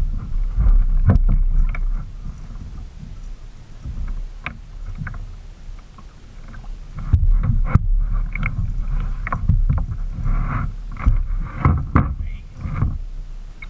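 A kayak on the water: irregular splashes and short knocks against the hull, over a low rumble on the microphone that swells and fades.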